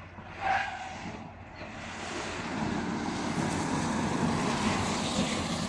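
Road and wind noise inside a BYD Seal electric car as it drives, building up over the first few seconds and then holding steady, with no engine note. A brief high-pitched sound comes about half a second in.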